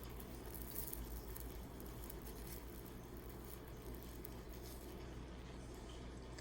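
Quiet room tone with a steady low hum and a few faint soft clicks.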